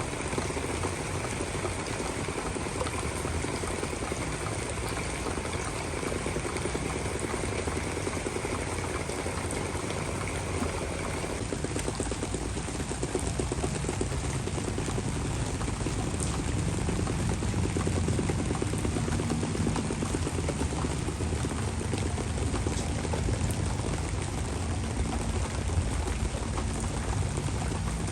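Heavy rain pouring down in a dense, steady hiss. A low rumble joins in and grows louder about halfway through.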